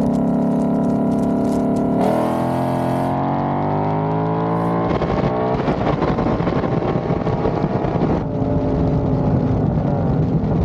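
Car engine running steadily, then accelerating with its pitch rising smoothly for about three seconds from two seconds in, then running rougher and noisier at speed.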